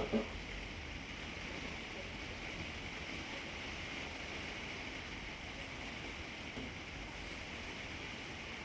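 Steady rain falling in wind, an even hiss throughout. A couple of brief dull knocks right at the start.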